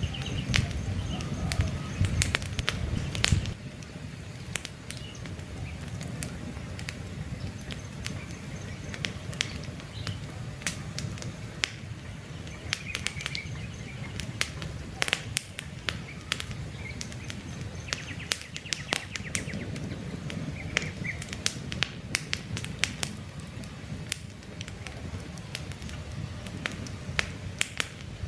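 Wood campfire crackling and popping with many sharp snaps over a low rush of burning, which is stronger for the first few seconds. Birds chirp faintly now and then.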